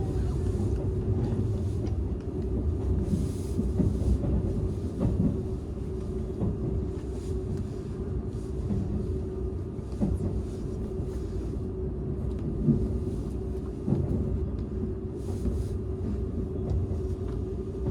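Cabin sound of a Seibu 001 series Laview express train car running on rails: a steady low rumble with a constant hum and occasional short clunks of the wheels over rail joints and points.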